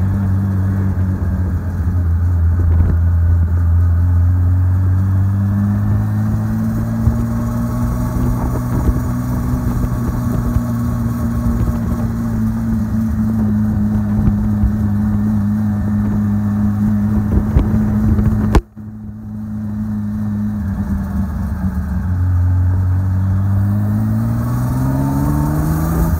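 Riley MPH's six-cylinder engine driving along at low speed, its note steady for long stretches and climbing twice as the car accelerates, dropping back right at the end as revs fall. The whole sound cuts out for an instant about two-thirds of the way through.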